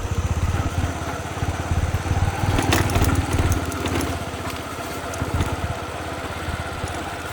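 Small motorcycle engine running under way with a fast, steady low pulse, a little louder in the first half and easing off about four seconds in.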